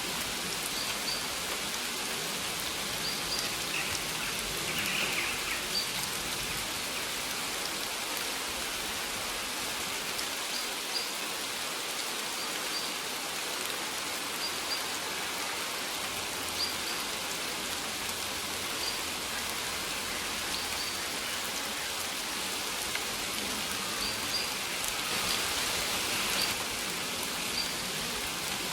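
Steady rain falling on a surface, an even hiss of drops, swelling briefly near the end. Short high bird chirps repeat every second or two over the rain.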